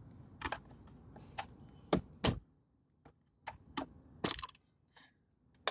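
Irregular sharp metal clicks and clinks, about a dozen, the loudest about two seconds in and just past four seconds in. They come from hand tools working a partly ground-through seat-recliner lock nut loose.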